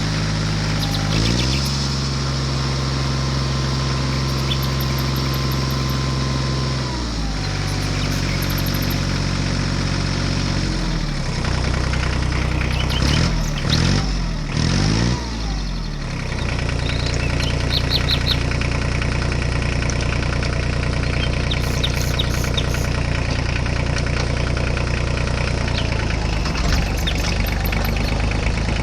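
An engine running at a steady speed. Its pitch steps up about a second and a half in, drops back near seven seconds, wavers up and down for a few seconds in the middle, then settles. Short bird chirps come and go over it.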